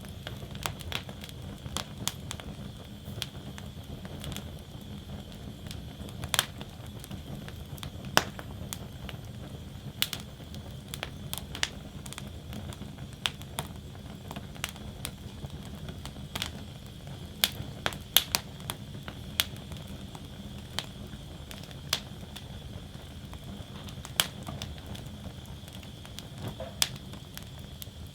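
Wood fire burning in a fire basket: a steady low rumble of flames with a faint hiss, and irregular sharp crackles and pops from the burning logs, a few of them louder snaps.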